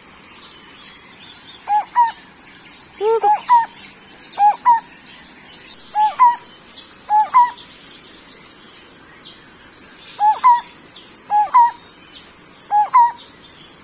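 Lineated barbet (takur bultok) calling: a repeated two-note hollow "bul-tok", about eight times at intervals of a second or so, with a short pause midway.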